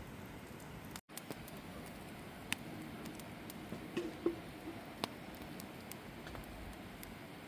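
Campfire burning: a steady low hiss with scattered sharp pops and cracks from the burning wood, a few louder ones in the middle.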